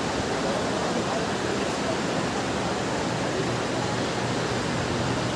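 Steady, even noisy din of a busy railway station, a hubbub with no single sound standing out.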